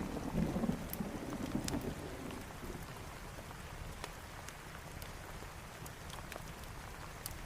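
Steady rain with the tail of a low thunder rumble fading out over the first couple of seconds, and scattered sharp ticks throughout.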